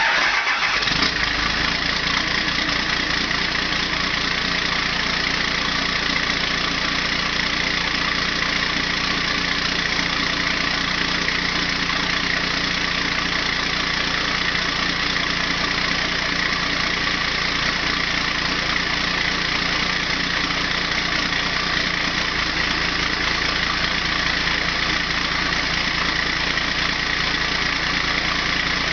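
Straight-piped 1994 Cummins turbo diesel starting cold: it catches in the first second and settles into a steady cold idle.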